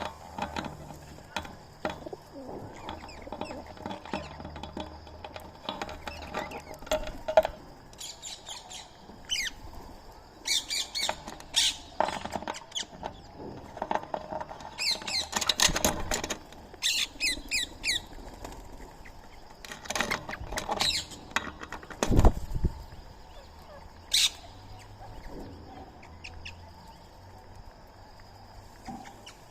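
Birds chirping in short, quick series several times, over scattered taps, clicks and rustling, with a single low thump about two-thirds of the way through.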